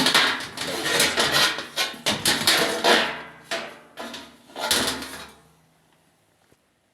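Sheet-metal back panel of a washing machine being pulled off and handled: a run of irregular clatters and scrapes that stops about five seconds in.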